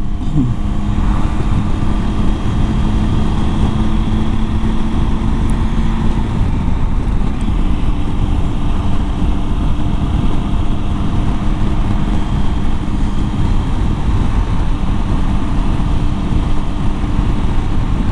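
Motorcycle engine running while riding, under steady wind and road rumble. A steady engine tone shifts about six seconds in.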